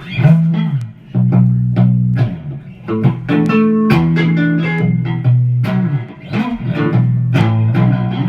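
Guitar playing a heavy, riff-based blues on the low strings, picked notes with a few bent notes sliding in pitch.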